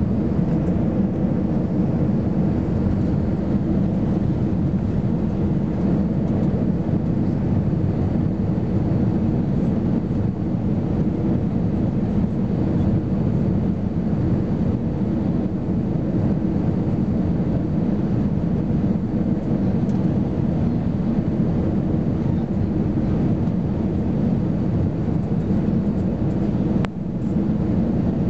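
Steady rumble inside the cabin of an Airbus A320-214 from its CFM56 engines, heard from a window seat, with one brief click near the end.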